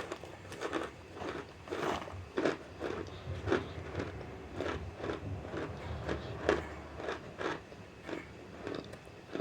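Person chewing dry cornstarch chunks: a steady run of crisp crunches, about two a second.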